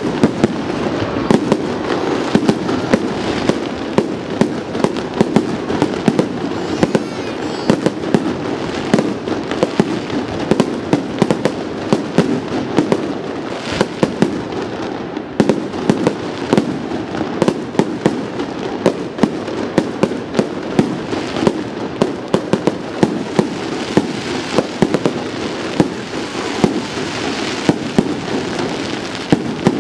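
Aerial firework shells bursting in rapid succession: many sharp bangs a second, overlapping into a steady din.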